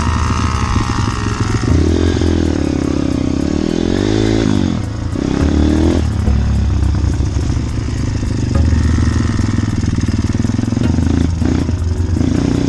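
Yamaha PW50 two-stroke mini motorbike engine revving, its pitch rising and falling several times as it speeds up and eases off, over a steady low engine drone.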